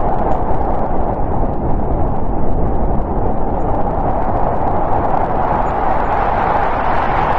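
Snowstorm wind blowing steadily, a dense rushing noise with a deep rumble underneath.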